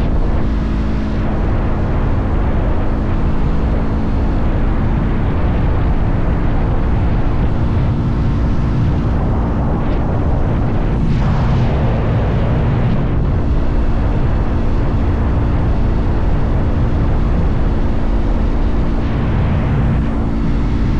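Motorcycle engine running at a steady cruising speed under heavy wind rush on the microphone, with a brief louder rush about eleven seconds in.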